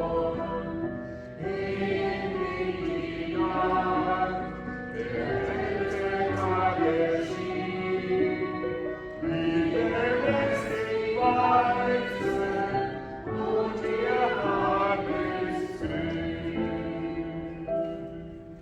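Church choir singing a hymn in sustained, slow phrases; the final chord dies away near the end.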